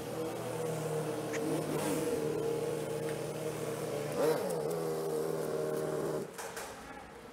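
Motorcycle engine running at low speed, with two short revs. It stops about six seconds in as the bike is parked.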